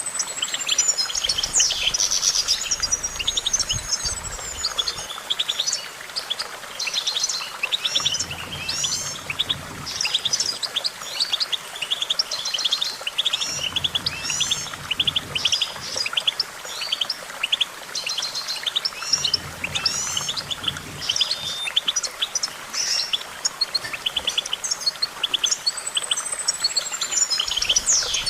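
European goldfinch singing: a fast, continuous twittering song of rapid trills and chirps, with a long arching, falling note near the start and again near the end.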